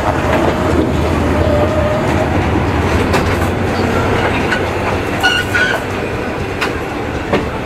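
Diesel-hauled passenger train passing close on the next track, heard from the open window of another moving train: a steady rumble, with wheels clacking over rail joints a few times and a brief high squeal about five seconds in.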